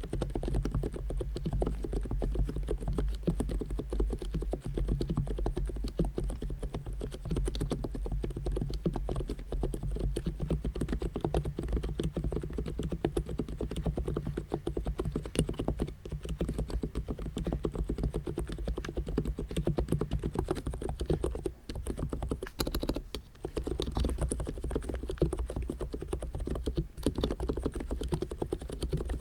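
Fast, continuous typing on an Abko K990 v3 capacitive (non-contact) keyboard, a dense run of keystrokes with two brief lulls a little past two-thirds of the way in.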